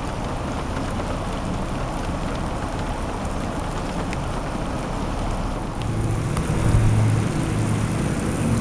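Steady rushing noise of rain and running floodwater, with a low engine hum from a vehicle coming in about six seconds in.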